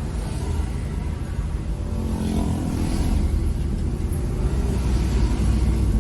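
A car being driven: steady low engine and road rumble, with a faint rise in engine tone about two seconds in.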